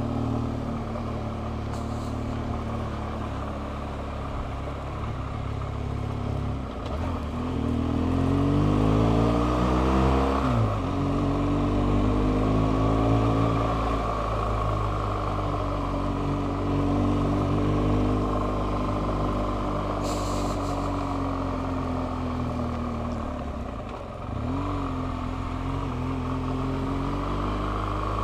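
BMW R1200GS flat-twin (boxer) motorcycle engine running under way over road and wind noise. The revs climb, drop sharply about ten seconds in, climb again, then ease off slowly, with a short dip near the end.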